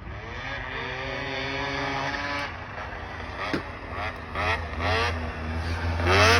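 Racing snowmobile engines revving hard as the sleds accelerate, the pitch climbing in several rising sweeps, getting louder as they come closer.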